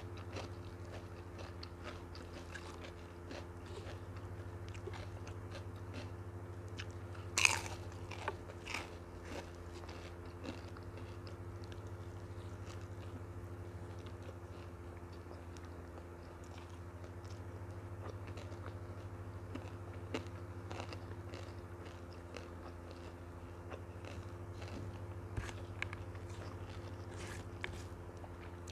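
Close-miked chewing and wet mouth sounds of a person eating fried noodles and rice with her fingers, with scattered sharp clicks and small crunches; the loudest click comes about seven and a half seconds in. A steady low hum runs underneath.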